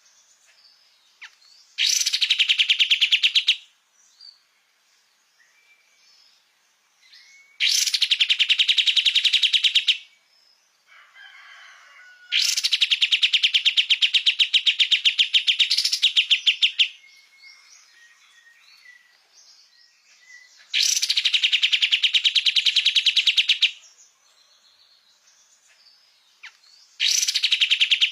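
A kapas tembak, an Indonesian songbird, singing in bouts of rapid, evenly repeated chattering notes. There are five bouts of about two to four seconds each, with short quiet gaps holding faint thin whistles.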